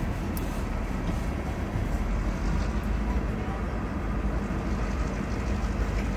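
Railroad tank cars rolling past close by: a steady low rumble of steel wheels on rail, with a few faint clicks.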